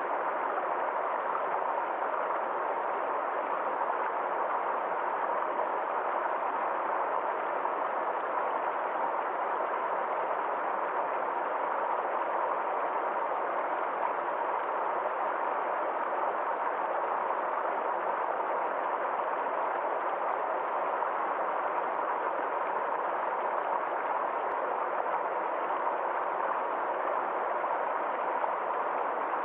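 Water of a small forest stream flowing steadily, an even, unbroken hiss with no changes.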